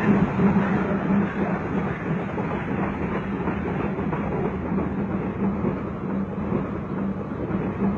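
Steam train running on the rails: a steady, dense rumble with a low drone.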